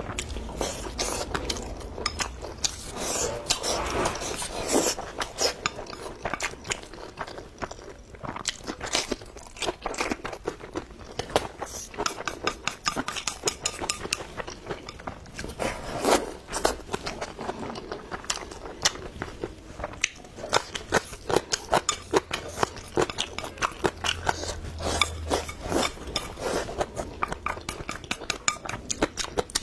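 Close-miked eating: a person chewing and crunching food, with frequent sharp clicks, and light clinks of utensils against dishes.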